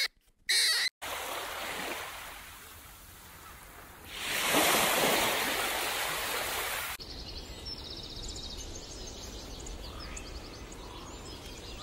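Surf washing onto a sandy beach, swelling sharply about four seconds in and then cutting off abruptly, after a couple of short high squeaks at the start. Then a quieter outdoor stretch with faint chirps and bird calls.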